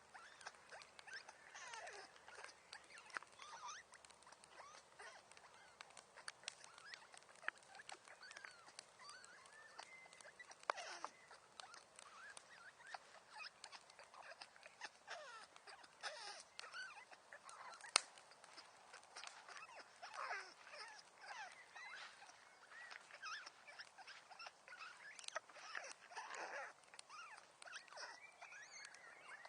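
Faint wood fire crackling with many small irregular pops and one louder snap about eighteen seconds in, mixed with short squeaky whistles that slide up and down in pitch.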